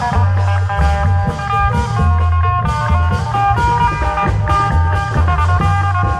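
Isan klong yao (long drum) procession band playing: a busy plucked, guitar-like melody over a heavy held bass and steady drum strokes.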